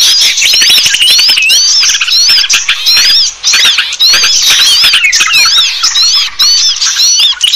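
Small-bird lure recording (pikat burung kecil) used to call birds to birdlime: a dense, unbroken chorus of many overlapping high, quick, squeaky chirps and call notes, several a second.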